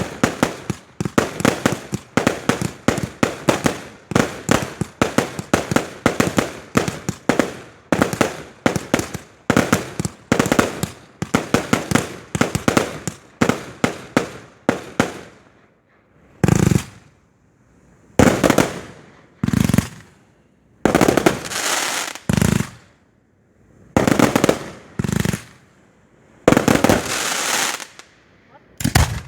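Firework display. For about fifteen seconds there is a rapid string of sharp bangs, several a second. Then come slower, separate bursts, each lasting up to a second with a hissing crackle.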